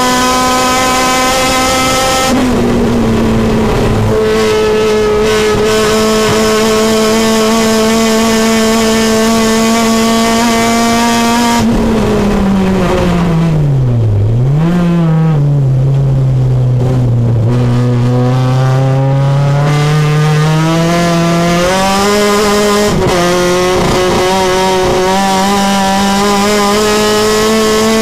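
Supercharged Honda K24 four-cylinder engine in a race-prepared Civic, heard from inside the cabin at high revs. About twelve seconds in the revs fall steeply with a brief blip, as on braking and downshifting. They stay low for a few seconds, then climb again, with a gear change about twenty-three seconds in.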